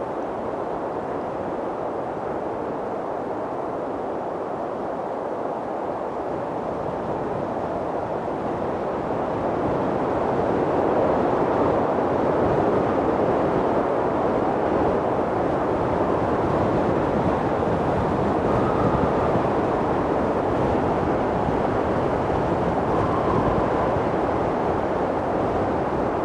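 Wind blowing: a steady rushing that grows louder about a third of the way in, with two faint, brief whistling tones in the latter half.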